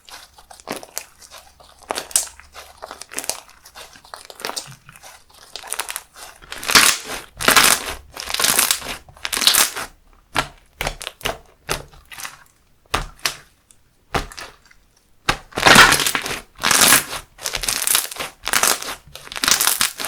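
Handmade slime being squished and pressed by hand: a run of short, crackly bursts, one after another, louder from about six seconds in, with a short lull about two-thirds of the way through.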